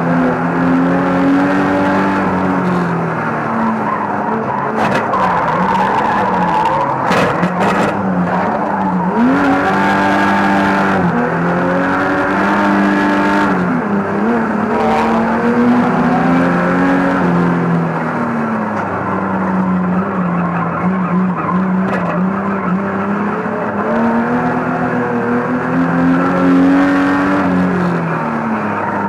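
Banger racing car's engine heard from inside its cabin, revving up and easing off again and again as it laps the track. A few sharp knocks come about five to seven seconds in.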